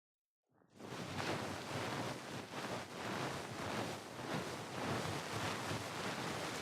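Ear pick scraping and rubbing close to the microphone in rapid, dense strokes: ASMR ear-cleaning sounds. It starts abruptly after silence about half a second in.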